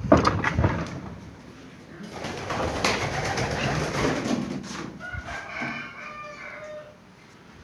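Birds in a coop calling, with rustling and movement; a loud noisy burst comes right at the start, and pitched bird calls come near the end.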